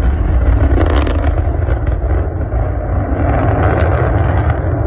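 Rocket launch roar: a loud, steady low rumble, with a brief sharp crackle about a second in.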